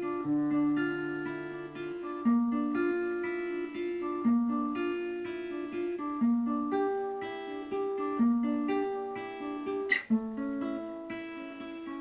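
Acoustic guitar played fingerstyle, picking broken chords. The bass note changes about every two seconds, and there is a sharp click about ten seconds in.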